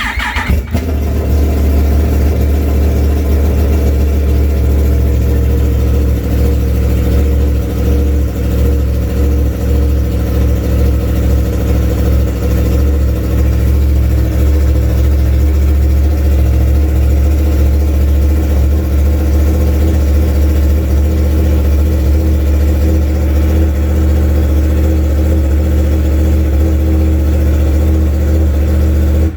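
2016 Yamaha R1's crossplane inline-four engine starting up and then idling steadily. The bike has a misfire under diagnosis.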